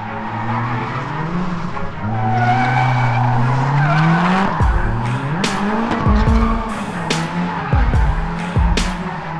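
LS1 V8 engine revving up and down under load with tyres squealing through a drift. Several sharp cracks sound over the second half.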